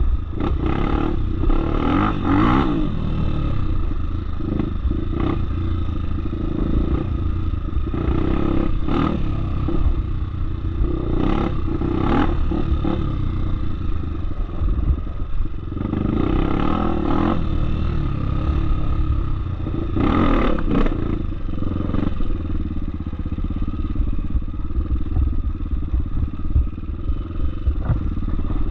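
Off-road motorcycle engine running steadily on a dirt trail, with scattered knocks and clatter from the bike over rough ground.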